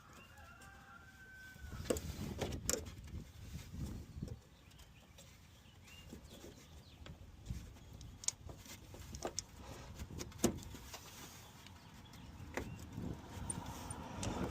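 Scattered sharp clicks and knocks of hand tools against metal and plastic parts while a car headlight assembly is being unbolted, with a short squeak near the start.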